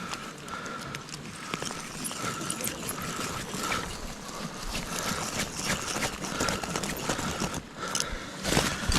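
Footsteps crunching in snow at a steady walking pace, about three steps every two seconds, with light clicks and clinks.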